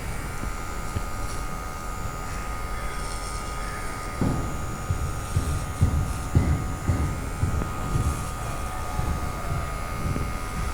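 Small electric motor of a cordless Qpets pet grinder-trimmer running steadily with a high, even whine while it is worked through a Shih Tzu's fur, with irregular low bumps from about four seconds in.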